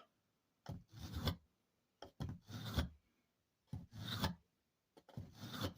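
Four short scraping strokes of a small hatchet's blade, about one every second and a half, each starting with a light click.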